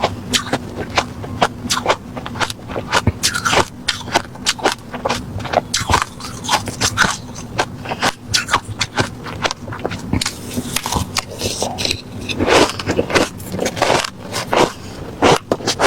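Refrozen crushed ice being bitten and chewed close to the microphone: a steady run of loud, crisp crunches, about two or three a second.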